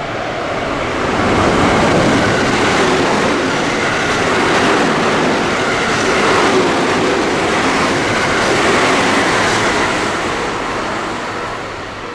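A train passing through a station without stopping: a loud, steady rush of wheel and rail noise that builds over the first second or two and fades near the end.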